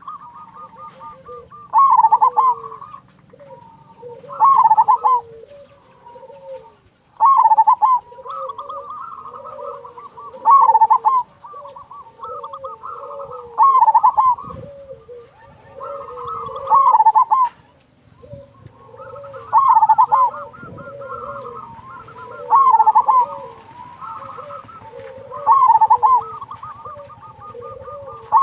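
Zebra doves cooing: a loud, bubbling phrase repeats about every three seconds, about ten times, over quieter cooing that carries on between them.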